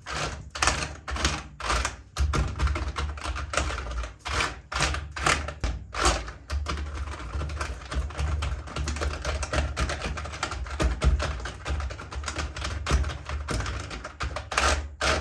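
Computer keyboard keys clacking in a rapid, irregular run of clicks, several strokes a second.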